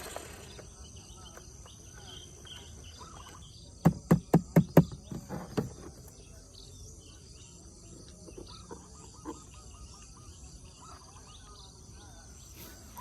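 Outdoor ambience with faint, scattered chirping calls, broken about four seconds in by a quick run of about six sharp knocks and one more a second later.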